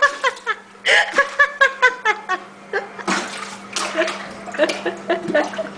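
Dirty water splashing and sloshing in a clogged kitchen sink as it is plunged, with a louder splash about three seconds in, under repeated laughing.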